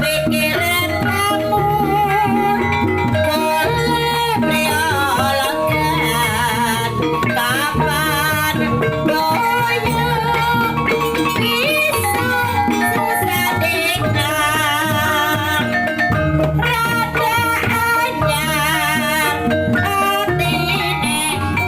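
Javanese gamelan music for a kuda lumping dance: a wavering sung melody over ringing pitched metal percussion and a steady drum pattern.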